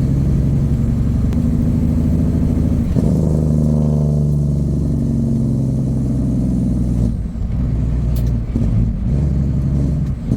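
Peterbilt semi truck's diesel engine running while under way, with a steady low drone. The engine note changes about three seconds in and eases off around seven seconds.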